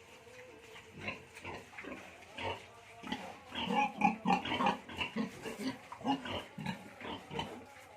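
Pigs grunting over and over, the grunts crowding together from about three and a half to five seconds in.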